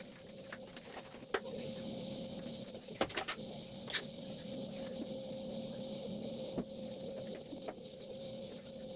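A steady hum with a constant mid-pitched tone, broken by several sharp clicks and knocks, the loudest a few seconds in.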